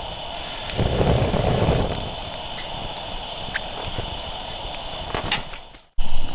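Outdoor night ambience: a steady, high-pitched insect trill over low rumbling noise, with a few sharp clicks. The sound fades out and cuts back in suddenly near the end.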